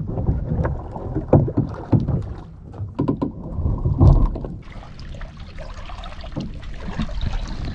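Hollow knocks and thumps of a kayak being handled and tipped, then from about five seconds in a steady rush of water pouring out of the swamped kayak as it empties.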